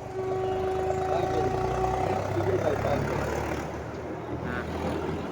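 A motor vehicle passing close by on the road, its engine running, with a horn held on one steady note for about the first two seconds.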